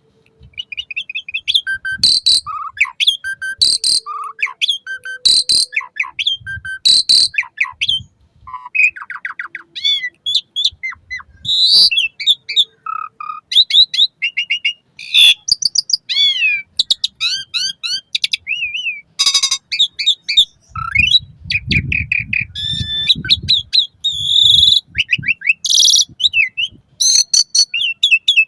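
Javan pied starling (jalak suren) singing a long, varied song: quick whistles, rising and falling slurred notes and harsh rasping calls, one after another with short gaps.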